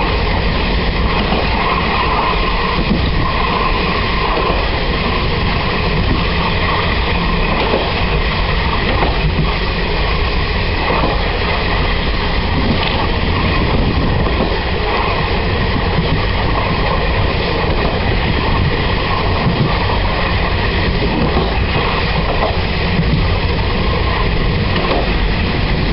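Steady running noise of a Taiwan Railway SPK2300 air-conditioned passenger coach, heard from inside its rear end: the coach's wheels rumbling along the rails with a few faint knocks.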